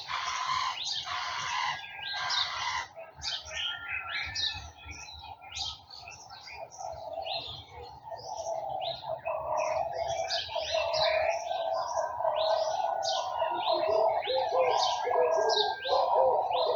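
Garden birds chirping and twittering in many short, high notes, densest at the start. From about halfway through, a low, repeated cooing, most likely a dove, joins in and grows louder.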